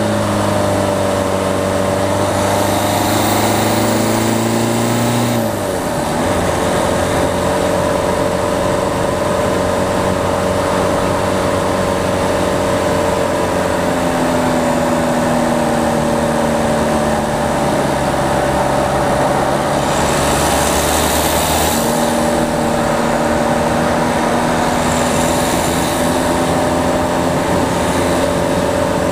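Peugeot 208's four-cylinder diesel engine running on the road, picked up by a camera mounted on the front of the car. Its note drops sharply about five seconds in with a brief dip in loudness, then climbs again and holds fairly steady.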